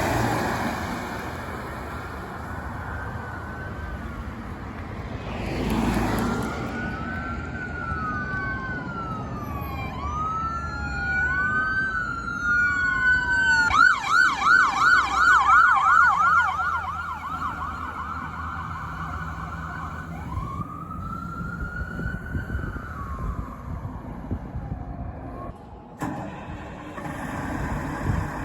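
Emergency vehicle's electronic siren, switching from a slow rising-and-falling wail to a fast yelp of about four cycles a second, then back to a slow wail. There is a brief loud rush of noise about six seconds in.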